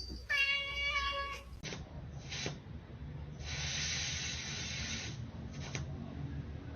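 A cat gives one long, even meow, then, about three seconds later, hisses for nearly two seconds. A few faint knocks sound in between.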